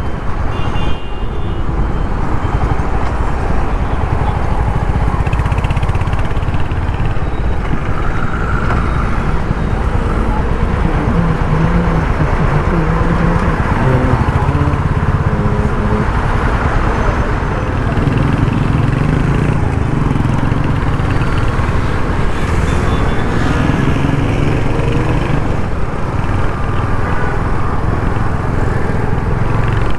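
Royal Enfield Hunter 350's single-cylinder engine and exhaust running while riding, its note rising and falling with the throttle.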